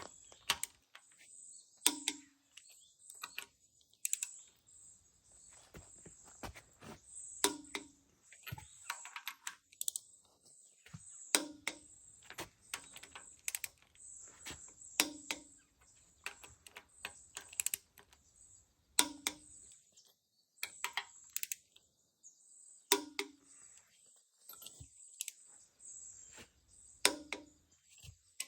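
Irregular sharp clicks and light knocks, the loudest every second or two, over a faint high hiss.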